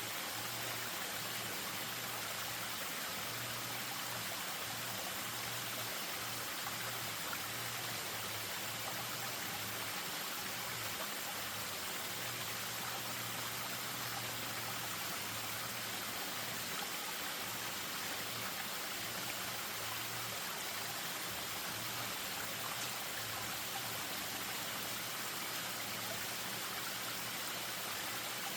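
Spring-fed stream running over a small waterfall: a steady, even rush of flowing water.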